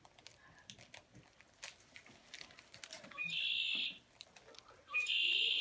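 Recorded bird calls from a toy bird: two short, buzzy, high calls about a second and a half apart, after soft handling clicks.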